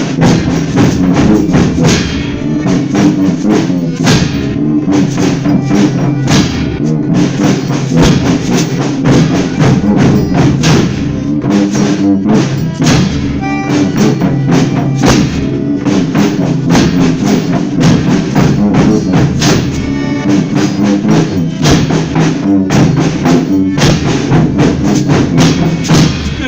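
A folia troupe's band playing an instrumental interlude between sung verses: a steady beat of drums and tambourine-like percussion over sustained pitched instrument notes.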